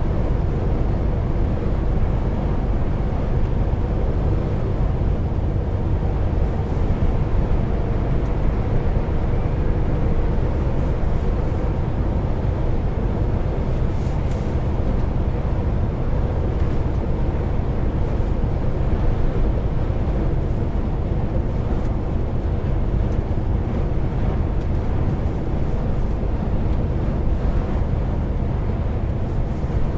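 Heavy truck on the move, heard steadily from inside the cab: a low diesel engine drone under steady road noise.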